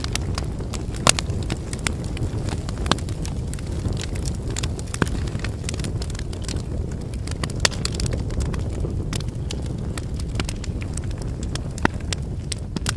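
Wood fire burning: a steady low rush of flames under frequent sharp crackles and pops from the burning firewood, with a few louder pops scattered through.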